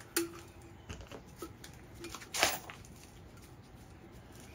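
A few light clicks and knocks of hard parts being handled, the sharpest knock about two and a half seconds in.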